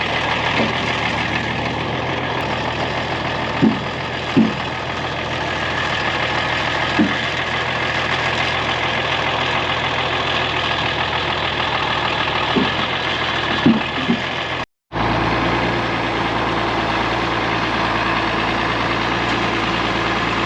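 An engine idling steadily, with a few short knocks now and then. The sound drops out for an instant near the middle, then the engine carries on at a slightly different pitch.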